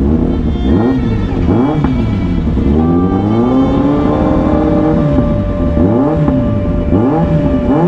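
Superbike engine being revved in a string of quick throttle blips, each rising and falling in pitch, with one longer rev held steady in the middle.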